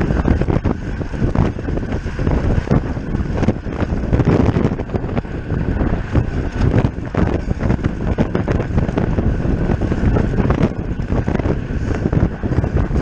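Wind buffeting the microphone of a camera on a road bicycle riding at race speed: a loud, steady rumbling rush.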